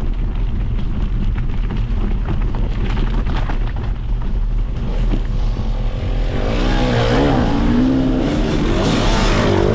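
Steady low wind and road rumble, then about six and a half seconds in a motorbike engine comes in and grows louder, its pitch rising and falling as it passes.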